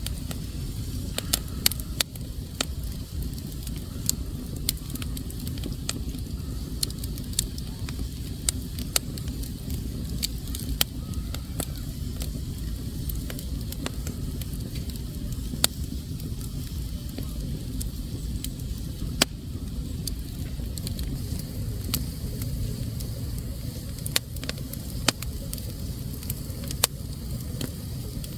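Wood fire burning in a fireplace: a steady low rumble with irregular sharp crackles and pops, about one a second.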